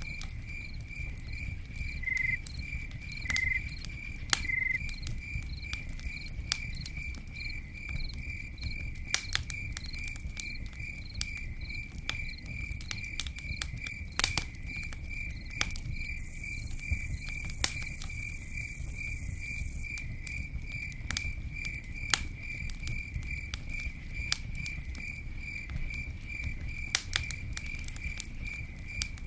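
Campfire crackling, with scattered sharp pops over a low rumble, while a cricket chirps steadily in a high pitch at about three chirps a second. A high hiss rises for a few seconds midway.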